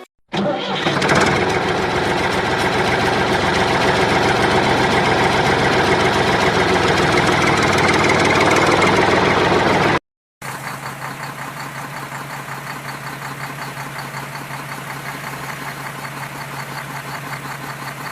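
A tractor engine running steadily, in two takes cut together: the first louder and rougher, the second quieter, with a steady low hum and an even fast pulsing.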